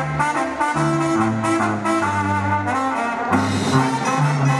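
Mexican banda playing an instrumental passage: trumpets and trombones sounding held chords over a low bass line, the notes changing about every half second.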